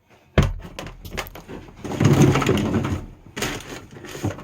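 Objects being handled and moved about: a sharp knock about half a second in, then scattered clunks and a denser stretch of rustling and scraping in the middle, with more knocks near the end.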